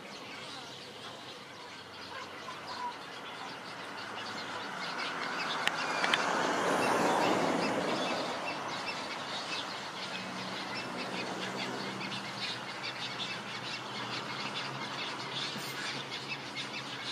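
Many small birds chirping in quick, overlapping calls. A broad rushing noise swells and fades around the middle, and a low hum runs through the second half.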